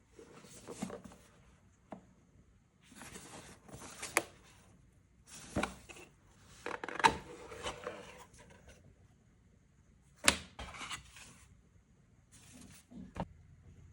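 Handling noise from unboxing a CO2 pellet pistol: short bouts of rubbing and sliding of packaging, broken by sharp clicks and knocks, the loudest about seven and ten seconds in.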